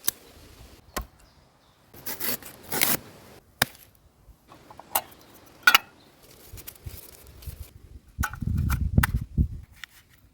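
Hand-crafting noises from working corrugated cardboard and a tin box: sharp clicks and short scraping strokes, with a longer low rustling scrape about eight seconds in.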